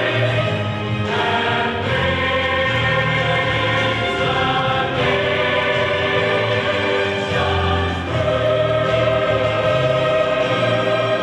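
Choir singing in sustained chords that change every second or two.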